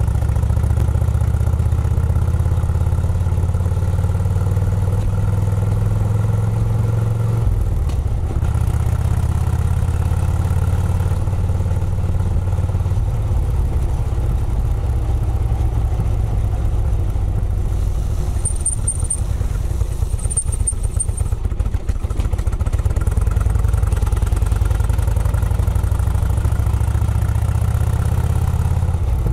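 Engine of a vintage car running steadily under way, heard close up from the car's nose. The engine note changes about seven and a half seconds in.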